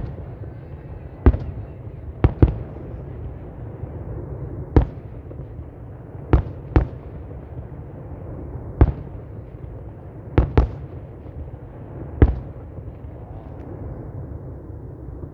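Fireworks display: about eleven sharp shell bursts at irregular intervals, several in quick pairs, over a steady low rumble.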